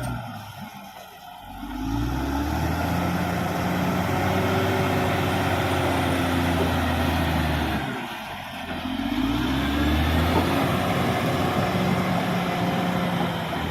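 Caterpillar D6R XL bulldozer's diesel engine working, falling away twice, about a second in and again about eight seconds in, and revving back up each time.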